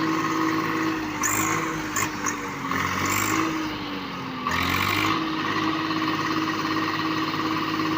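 Swaraj 744 FE tractor's three-cylinder diesel engine running steadily. Its speed dips about three seconds in, then comes back up.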